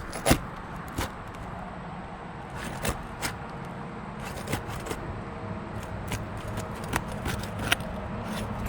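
Scattered sharp clicks and short scrapes of asphalt roof shingles being pried up off their nails, over a steady low hum.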